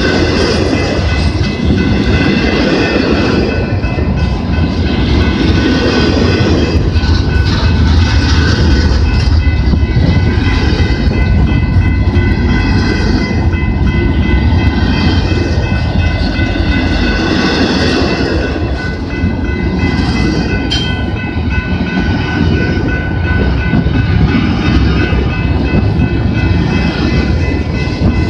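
Freight train of empty double-stack intermodal well cars rolling past close by: a continuous heavy rumble of steel wheels on rail with clickety-clack from the rail joints. Steady high-pitched tones ring over it.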